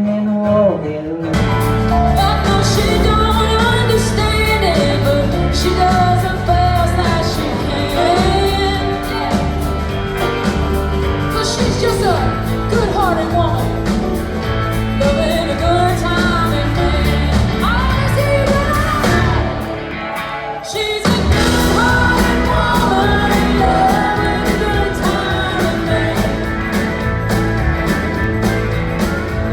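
Band music with a singer: bass and drums come in about a second in and run on as a steady beat, with a brief break about two-thirds of the way through before the band picks up again.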